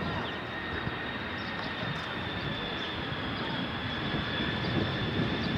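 Jet airliner engines running steadily at a distance: a low rumble with a thin high whine that sinks slowly in pitch.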